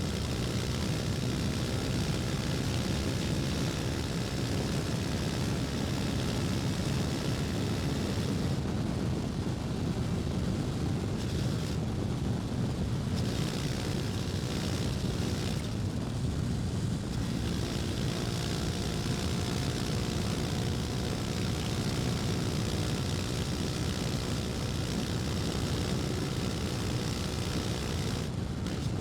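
KTM Duke 250's single-cylinder four-stroke engine running on the move, with wind rush over it. Through the middle the engine eases off twice, then pulls on again with its pitch changing.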